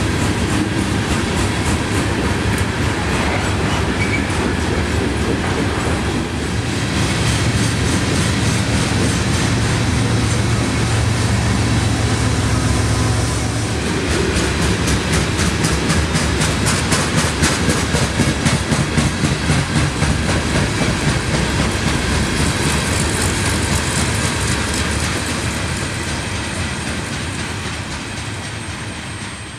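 Loaded coal train rolling past: a steady rumble of wheels on rail from the coal hopper cars, with a rhythmic clickety-clack of wheels over rail joints in the middle. The sound fades away near the end as the last cars go by.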